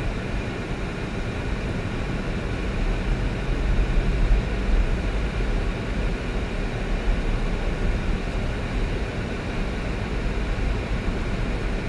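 Steady low rumble of a vehicle being driven, road and engine noise without any distinct events.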